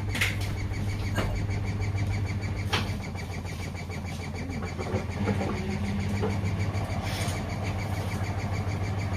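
Hoover and Samsung washing machines running a 40°C delicates cycle: a steady motor hum with a fast, even ticking, and a few sharp clicks.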